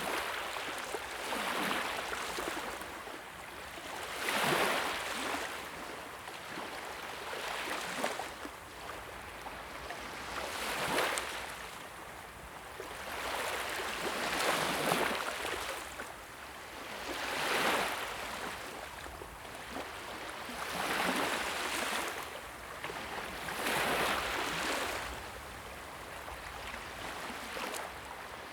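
Fire crackling and hissing: a continuous hiss that swells and fades about every three seconds, with occasional faint crackles.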